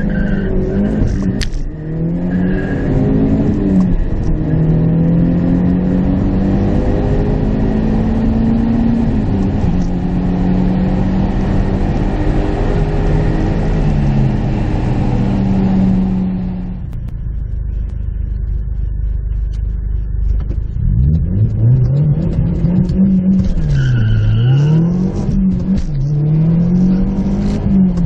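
Audi S3's turbocharged four-cylinder engine at full throttle, heard inside the cabin, pulling up through the gears with its pitch rising and dropping back at each shift. About two-thirds of the way through it lets off and the note falls and quietens, then it winds up hard through the gears again near the end.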